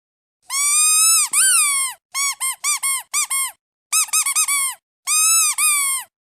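Squeaky duck toy squeezed over and over, giving bright, pitched squeaks. First come two long squeaks, then two quick runs of short squeaks, and finally one long squeak near the end.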